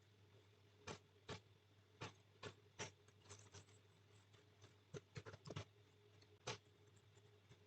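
Faint, irregular keystrokes on a computer keyboard, about a dozen sharp clicks with uneven gaps, over a low steady hum.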